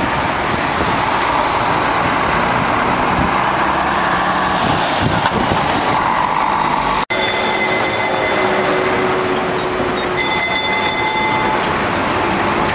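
Tram running past amid street noise, with a high, steady wheel squeal that comes twice after a cut, each time for a second or so.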